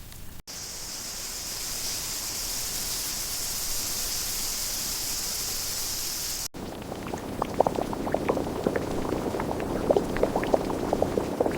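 A steady hiss for about six seconds, then, after a sudden cut, a pot boiling with irregular pops and crackles.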